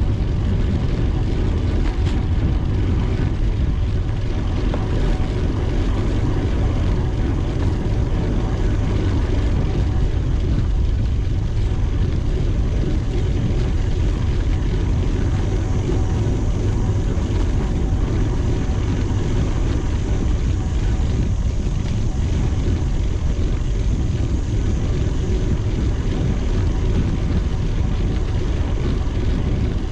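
Steady, loud wind rumble on the microphone of a camera riding along on a moving bicycle.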